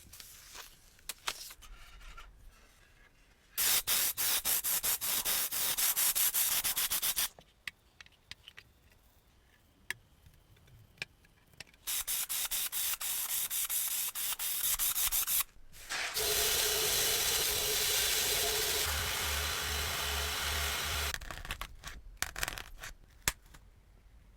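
Abrasive sanding or scrubbing of rusty metal in three bouts of rapid back-and-forth strokes with short pauses between them; the last bout is longer and steadier.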